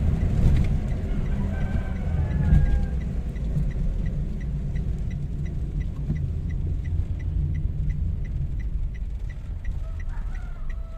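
Toyota Wigo's small three-cylinder petrol engine running with a misfire, briefly rising in level about two and a half seconds in, then settling; the misfire is put down to a failed ignition coil. A light high ticking repeats about three times a second.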